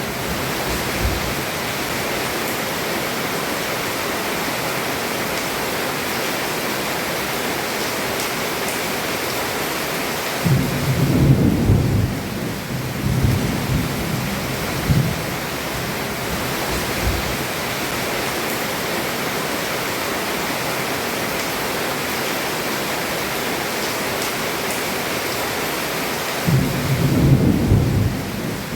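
Heavy rain falling steadily, heard from under a roof, with thunder rumbling about ten seconds in and again near the end.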